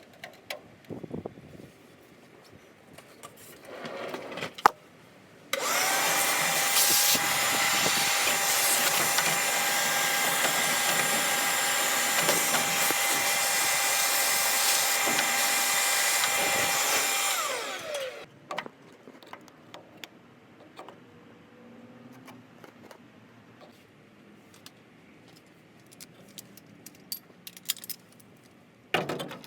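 A small electric motor starts abruptly and runs steadily at high speed for about twelve seconds, then winds down with falling pitch. Scattered light clicks and knocks come before and after it.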